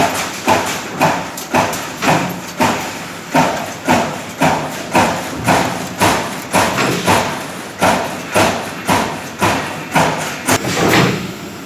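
Hydraulic CNC turret punching machine punching, a steady rhythm of sharp hits about two a second.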